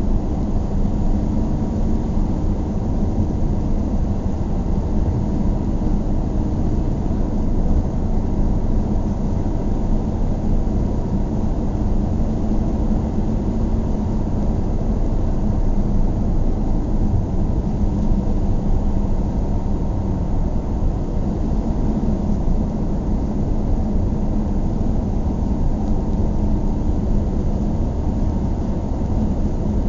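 Steady low rumble of a car driving along, the mix of engine and tyre noise holding even throughout.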